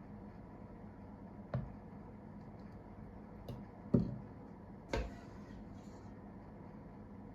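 Four short, light knocks, the loudest about four seconds in, over a steady low hum.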